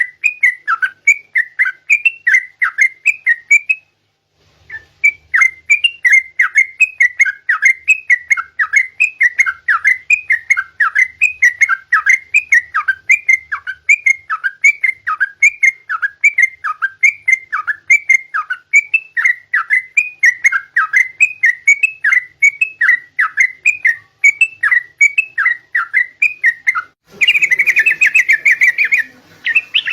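Yellow-vented bulbul (trucukan) singing: a long run of repeated, downslurred whistled notes at an even pace, with a short break about four seconds in and a denser, scratchier burst of chatter near the end.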